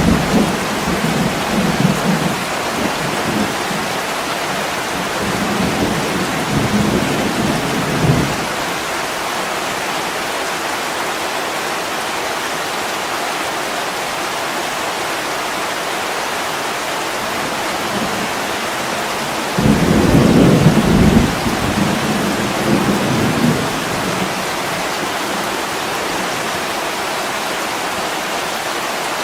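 Heavy rain falling steadily, with rolling thunder rumbling low through the first eight seconds and a louder rumble that starts suddenly about twenty seconds in and fades out a few seconds later.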